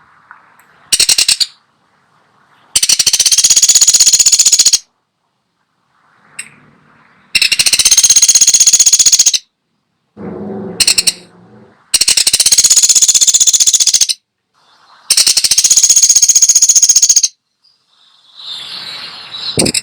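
Pelatuk sampit woodpecker calling in rapid rattling trills: fast even strings of high, sharp notes, each about two seconds long. Four full trills come a few seconds apart, after a short one about a second in.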